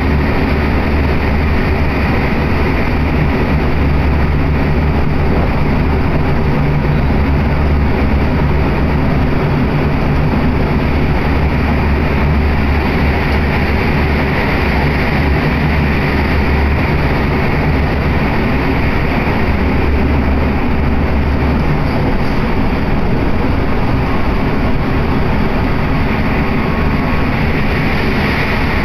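Electric commuter train running, heard from inside the carriage: a steady rushing noise over a low hum. The low hum weakens about two-thirds of the way through.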